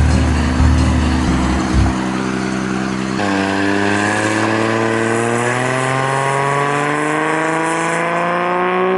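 A car engine accelerating, its note climbing steadily for about six seconds from roughly three seconds in. Before that, a pounding low music beat fills the first two seconds.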